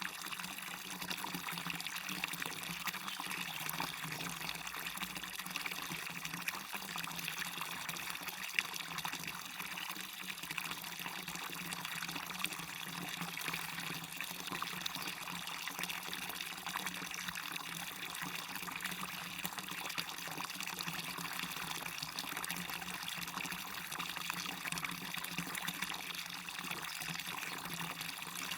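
Water running over a small waterfall: a steady, even rush of water, bright and hissy with little deep rumble.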